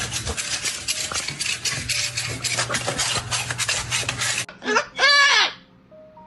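Rapid scratching and rubbing for about four and a half seconds, stopping abruptly, followed by one short call with a rising then falling pitch.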